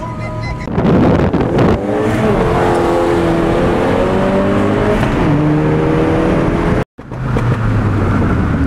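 A car engine accelerating hard: a loud burst of noise about a second in, then the engine note climbs in pitch, drops at a gear change and climbs again. Near the end the sound cuts out for an instant and comes back as a steadier engine note.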